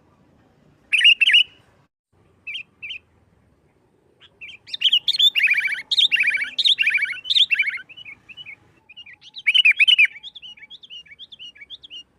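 Sooty-headed bulbul (kutilang) singing fast, combative 'nggaruda' song: a short burst, two brief notes, then a long run of rapid notes, another burst, and a string of short notes near the end.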